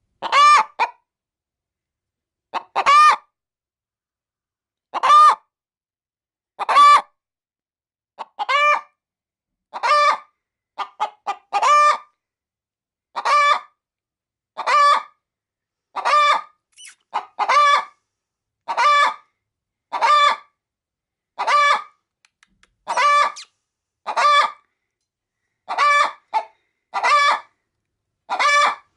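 A hen calling over and over, one drawn-out call about every second and a half, the noises of a hen getting ready to lay an egg.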